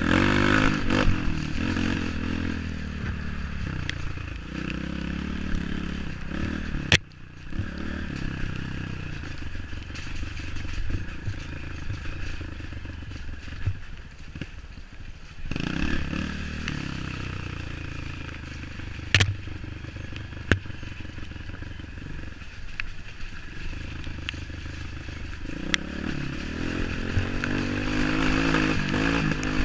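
Trail motorcycle engine running, revving up and easing off over and over, with sharp knocks and clatter as the bike rides over rough ground.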